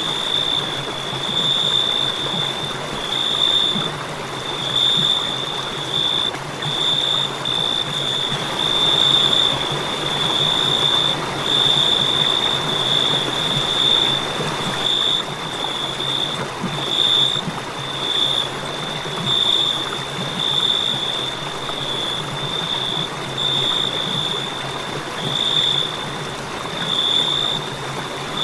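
Crickets chirping in a steady high trill that swells and dips every second or so, over a soft, even hiss.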